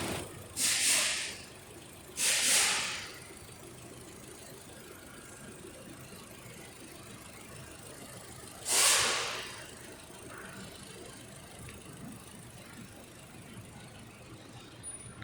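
Toyota Camry 2.5-litre engine running steadily, broken by three short, loud hissing bursts: one about half a second in, one about two seconds in, and one near the middle.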